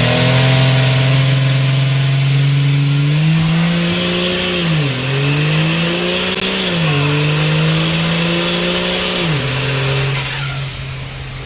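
Built 1000-horsepower Cummins diesel drag truck engine under throttle: the engine note climbs, dips briefly twice and holds, over a high turbo whistle that rises and stays up. Both fall away about ten seconds in and the sound gets quieter.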